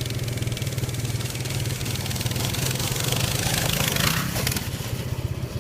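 A motorbike engine running with a steady low drone, growing louder and rougher as it speeds up to a peak about four seconds in, then easing off: the run-up to a jump.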